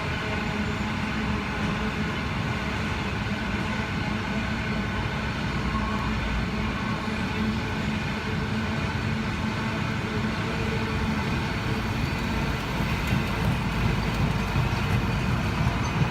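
Container freight train running past: a steady rumble and drone, getting a little louder with some short clicks in the last few seconds.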